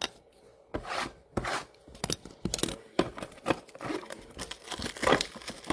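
Trading cards and plastic card holders being handled: a quick series of short sliding, scraping swishes.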